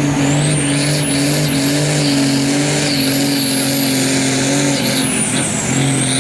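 Hot farm tractor's turbocharged diesel engine at full load pulling the sled, holding a steady pitch with a high turbo whistle that rises and falls.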